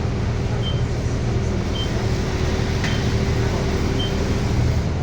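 Inside a city bus: steady engine hum, with a short high electronic beep repeating about once a second and a single click near three seconds in.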